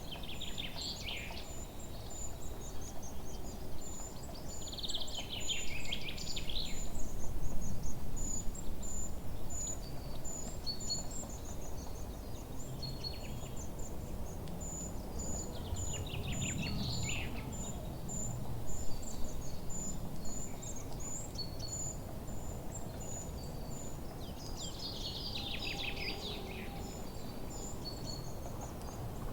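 Forest dawn chorus: songbirds sing a few loud descending trilled phrases over a steady run of short, very high chirps repeated a few times a second, with a low rumble of wind or distant water underneath that swells now and then.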